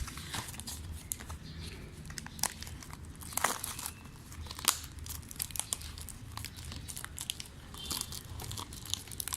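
Plastic packaging of an instant noodle pack crinkling and tearing as it is unwrapped by hand: irregular crackles, with a few sharper snaps in the middle.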